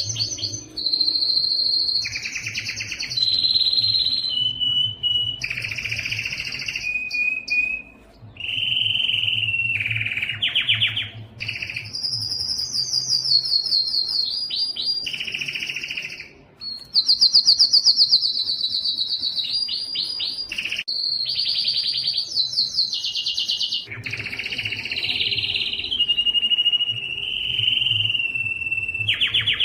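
Canary singing a long, continuous song of rapid trills and rolls, switching to a new phrase every second or two, with some steady whistled notes in between.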